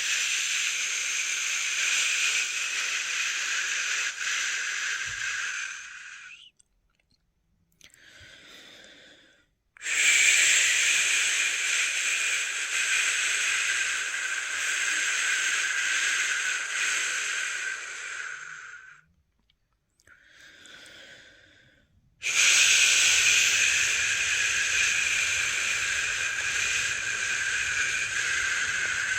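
A person shushing ('shhh') to soothe a newborn to sleep: three long, steady shushes, each several seconds long, with a short, faint breath in between them, about a third of the way in and again about two-thirds of the way in.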